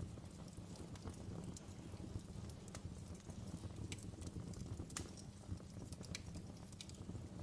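Wood fire burning in a fireplace: irregular sharp crackles and pops, a few a second, over a steady low rumble of the flames.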